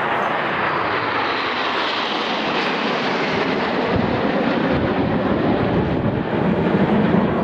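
BAE Hawk T1 jets of the Red Arrows flying past, their Adour turbofan engines making a steady jet noise that turns deeper and a little louder toward the end.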